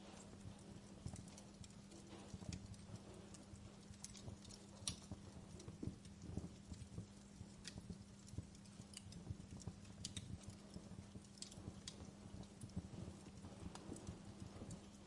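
Wood fire in a fireplace crackling: faint, irregular pops and snaps, several a second, with a few sharper cracks and a steady low hum underneath.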